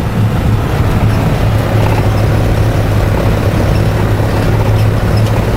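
Vehicle engine and road noise running steadily as it climbs, with a constant low hum.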